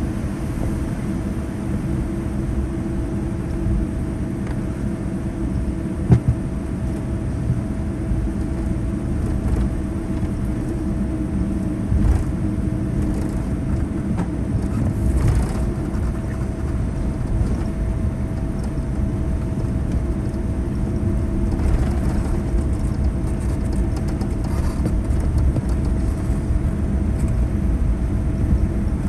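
Boeing 787-9 cabin noise after landing as the airliner taxis: a steady low rumble with a constant mid-pitched hum, and a single sharp knock about six seconds in.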